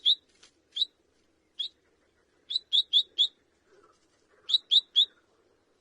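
A minivet calling: short, sharp, high chirps. First come single notes, then a quick run of four about halfway through and a run of three near the end.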